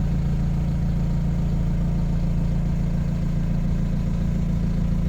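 DAF LF 180's 4.5-litre four-cylinder diesel engine idling steadily, with an even low hum and no change in revs.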